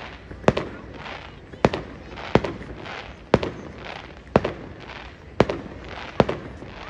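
Aerial fireworks shells bursting in a steady run, seven sharp bangs about a second apart, each trailing off briefly.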